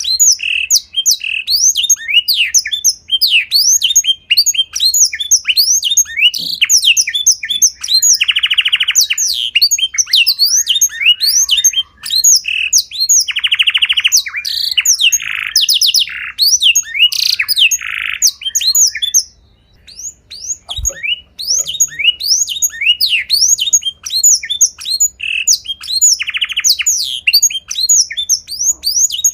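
A small songbird singing rapid, high chirps and sweeping whistles, several a second, broken now and then by short buzzy trills, with a brief pause about two-thirds of the way through.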